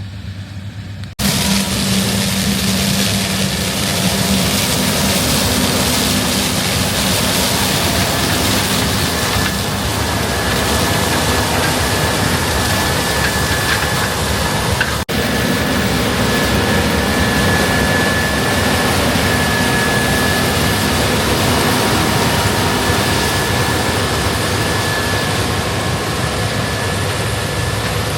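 Combine harvester running at work: a steady, loud mechanical noise across all pitches with a thin high whine and a low hum. It starts abruptly about a second in and breaks off briefly about halfway.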